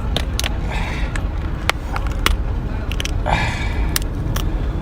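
Cooked lobster shell being cracked and eaten: a series of sharp cracks and clicks, with two longer scraping sounds, over a steady low rumble.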